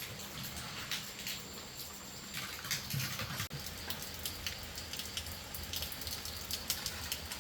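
Steady rain falling, with many individual drops ticking and pattering on a surface.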